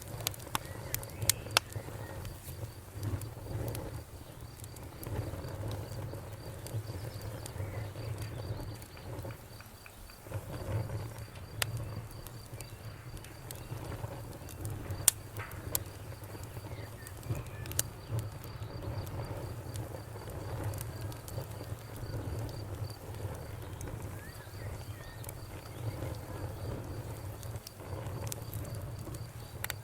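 Crackling wood fire: a steady low rumble of burning with scattered sharp pops and snaps, the loudest about halfway through. A faint, high, rapidly pulsing note runs underneath.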